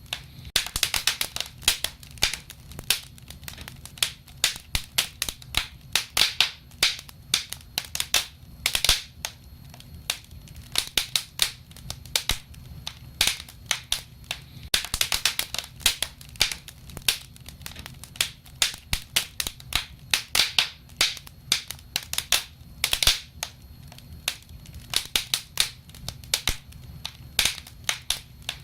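Wood fire crackling: irregular pops and snaps of burning wood, several a second, over a low steady rumble.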